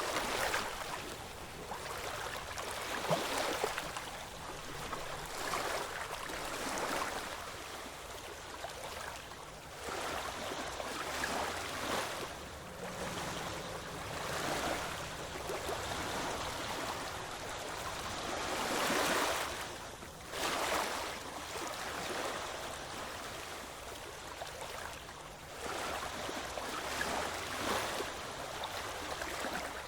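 Ocean waves washing onto the shore: a continuous hiss of surf that swells and falls back every second or two, with the biggest surge about two-thirds of the way through.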